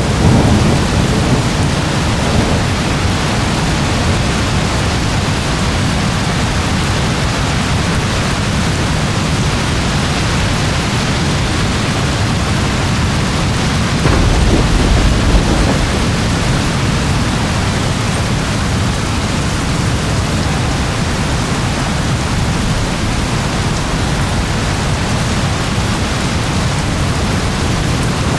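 Steady rain in a thunderstorm, with low rumbles of thunder near the start and a louder rumble about halfway through.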